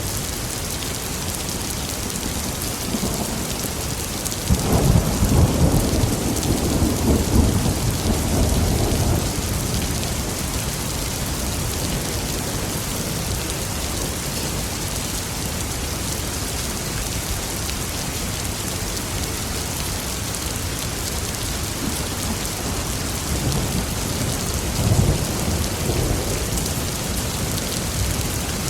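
Steady heavy rain hissing, with a roll of thunder rumbling in about four seconds in and fading over several seconds, and a second, weaker rumble of thunder near the end.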